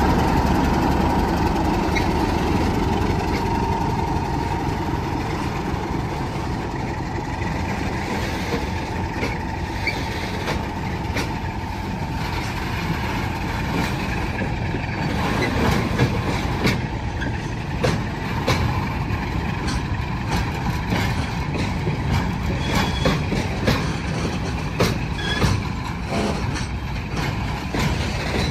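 A train running through a rail yard: a steady rumble, with a faint high tone that fades over the first few seconds, then scattered sharp clicks and knocks that grow more frequent in the second half.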